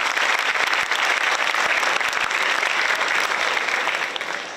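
Audience applauding in a large hall, fading away near the end.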